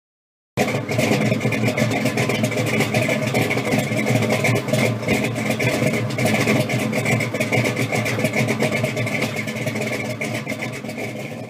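A car engine running steadily, starting abruptly about half a second in and fading out near the end.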